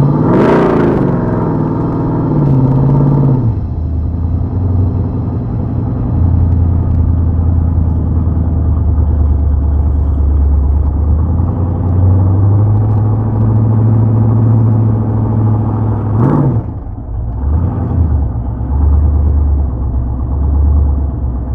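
A car engine idling steadily, revved up and back down near the start and given one short, sharp rev about sixteen seconds in.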